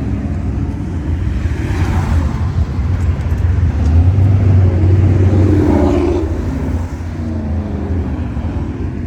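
A classic car's engine rumbling as the car cruises past, getting louder to a peak about halfway through, then falling away a little after six seconds in.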